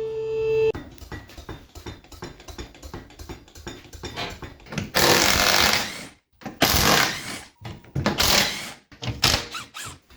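Mechanic's tools at work on a car engine: a run of quick clicks and knocks for several seconds, then four short, loud bursts from a power tool.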